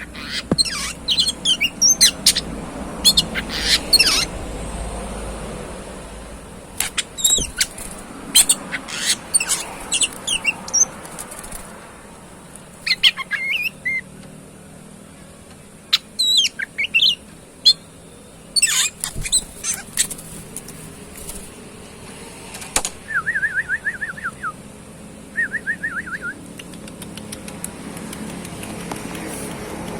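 Oriental magpie-robin (kacer) in breeding condition singing and calling in loud, sharp bursts of high notes, with two short rapid trills near the end.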